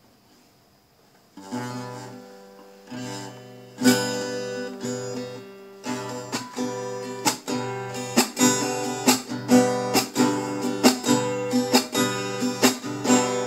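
Acoustic guitar strummed: a few slow, ringing chords after a brief silence, then a steady strumming rhythm from about six seconds in, the instrumental introduction to a sung worship song.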